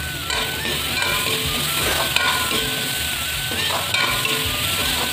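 Sliced star fruit sizzling in hot oil in a steel wok, stirred with a metal ladle that scrapes and knocks against the pan several times.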